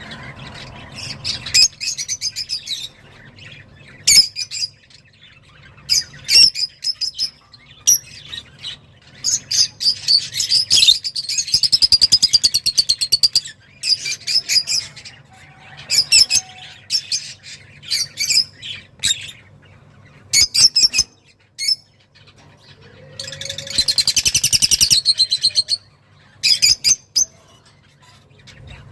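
Excited song of a small cage songbird of the kind keepers call 'roz': bursts of rapid, high trills and chirps with short pauses between them, including two long trills, one in the middle and one about three-quarters through. A faint steady low hum runs underneath.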